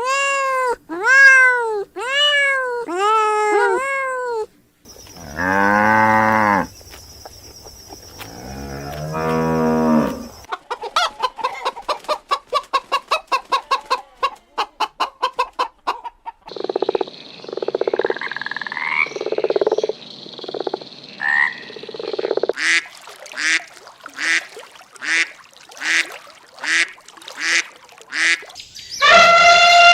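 A sequence of different farm animal calls, one after another. It opens with five short meow-like calls that rise and fall in pitch. Then come two long low cow moos, a fast run of croaking calls, irregular honking calls and a regular series of short calls, and it ends with one long arched call near the end.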